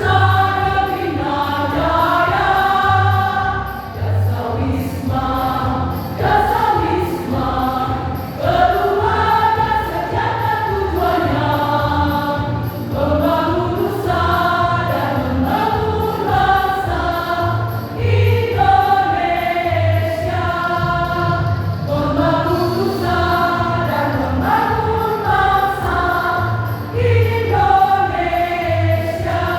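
Choir singing with accompaniment, a steady low beat underneath.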